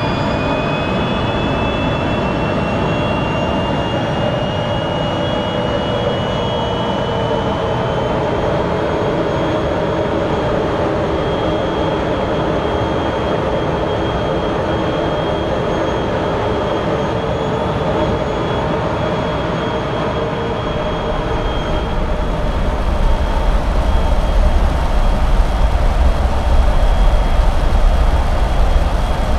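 Rolls-Royce Spey 205 turbofan jet engine running on a ground test bed, its whine rising in pitch over the first several seconds as it spools up toward full power. About three-quarters of the way in, a deep low rumble comes in and the sound grows louder.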